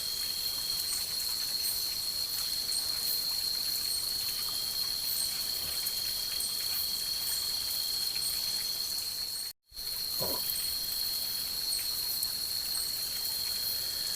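Night insect chorus of crickets or katydids: a steady high-pitched drone over a soft hiss, with a fainter second tone fading in and out. The sound cuts out abruptly for a moment about two-thirds of the way through, then resumes.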